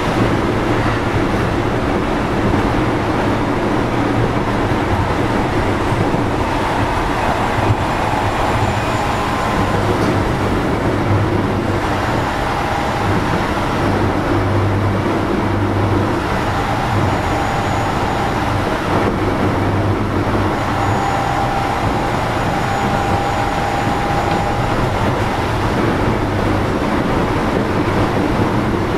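Keio 7000 series electric train car running steadily along the line: a continuous rumble of wheels on rail, with faint pitched motor tones that come and go.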